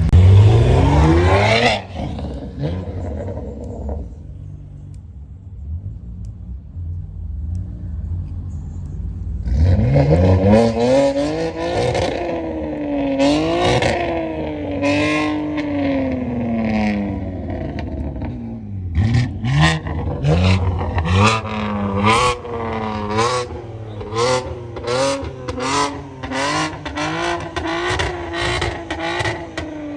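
Car engine revving hard: a fast climb through the revs at the start, then repeated long rises and falls in pitch, and from about two-thirds of the way in, quick short blips of the throttle with sharp cracks.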